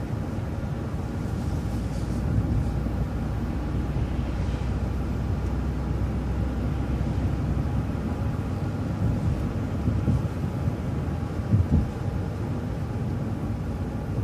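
City transit bus running, heard from inside the cabin: a steady low engine and road rumble, with a couple of small knocks near the end.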